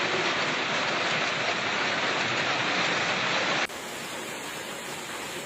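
Storm downpour, a loud steady hiss of falling water. About three and a half seconds in it cuts suddenly to a quieter rush of water.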